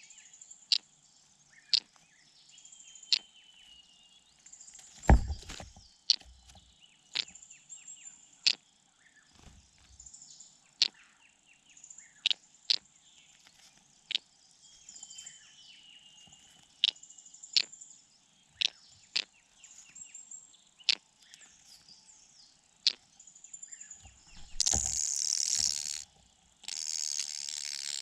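A small bird giving sharp chip calls, irregularly about once a second, with faint thin whistled notes between them. Near the end, two loud bursts of hissing noise of about a second and a half each.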